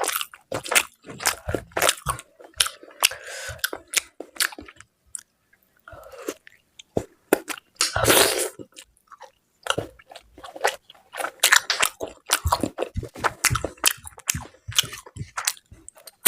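A person eating close to the microphone: wet chewing and biting of mutton curry with luchi and salad, full of quick sharp clicks and mouth noises, with a short pause about five seconds in.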